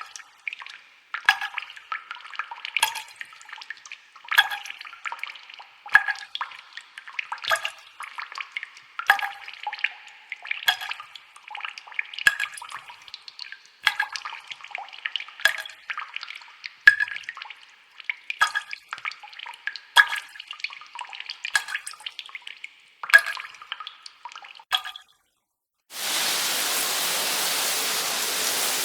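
Water dripping and trickling in small splashes that come about every second and a half. They stop a little before the end, and after a short silence a steady, even rushing noise takes over.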